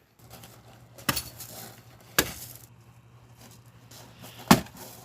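Axe striking firewood three times, with a sharp knock about a second in, another a second later, and the loudest near the end.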